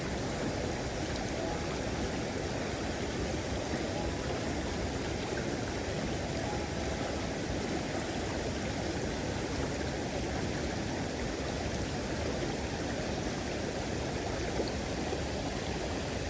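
Mountain stream water rushing steadily, an even hiss of flowing current.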